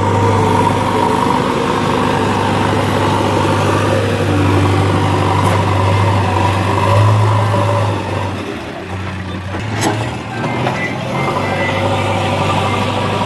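Heavy diesel engine of a tractor or backhoe loader running steadily with a low, rattly hum, easing off briefly about two-thirds of the way through, with a sharp click in that dip.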